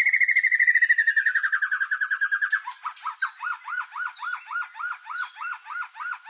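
White-rumped shama (murai batu) singing: a fast whistled trill that slides slowly down in pitch, then, a little before three seconds in, changes to a steady run of repeated rising-and-falling whistles, about four a second.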